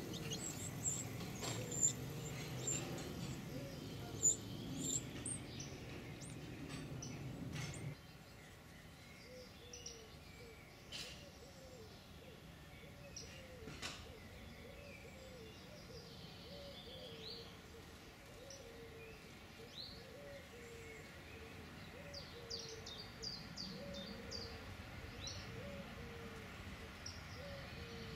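Small birds chirping in thin, high notes, clustered at the start and again about two-thirds of the way through. Beneath them a low background rumble stops sharply about eight seconds in, and a steady series of short low notes repeats about every half-second from then on.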